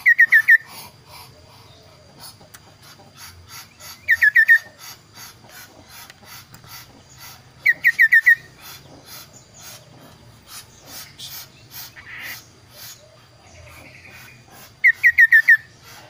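Caged kaso-kaso bird singing: four short, loud bursts of four or five quick whistled notes each, a few seconds apart, with a fainter rapid pulsing running underneath.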